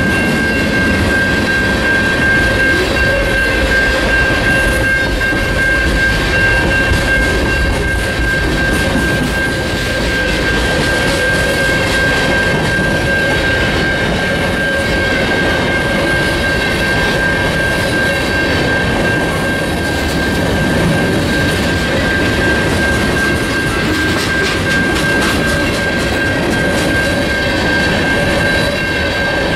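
Train cars rolling steadily past, a continuous rumble and rattle of wheels on rail with a steady high-pitched whine held the whole time.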